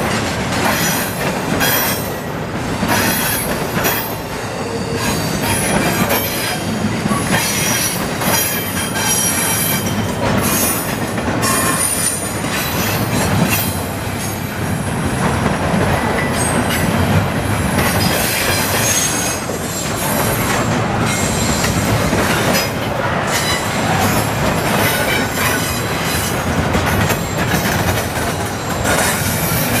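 Double-stack intermodal freight train rolling past at close range: steel wheels on rail make a steady loud rumble with irregular clanks and clatter, and a high wheel squeal comes and goes.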